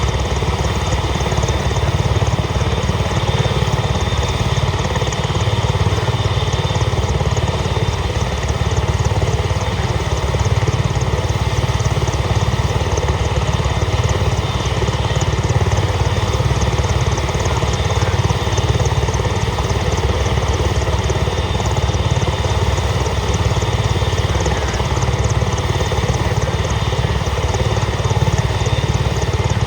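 Agusta-Westland EH-101 Merlin helicopter running steadily with its three turboshaft engines and rotors turning: a constant turbine whine over heavy rotor and engine noise, with no change in level.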